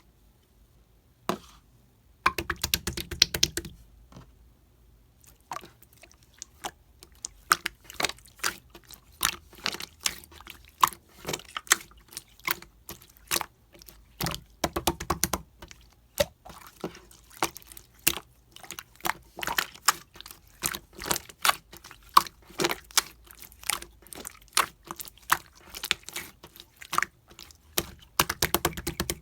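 Mixed green slime being squished and pressed by hand, giving a steady stream of quick wet clicks and pops with a few denser squelching stretches.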